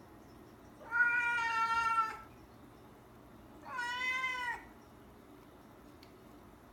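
Domestic cat meowing twice, two long meows: the first lasts over a second and the second is shorter and quieter. This is a cat asking to be let out.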